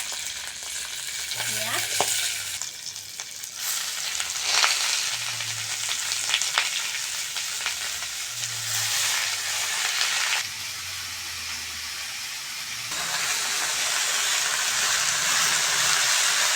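Garlic, green chillies and onion frying in hot oil in a pan, a steady sizzling hiss as they are stirred, with a few short knocks. The sizzle drops for a couple of seconds past the middle, then comes back louder.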